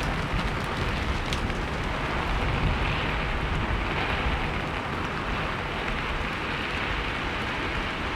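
Steady rain, a continuous even hiss with a low rumble beneath it and a few faint drop ticks.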